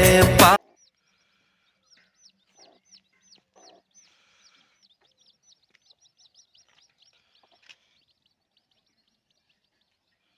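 A Bollywood song cuts off abruptly just after the start. Then come faint chickens: rapid high chirps falling in pitch, a few each second, with a few soft low clucks early on and one sharper call near 8 seconds.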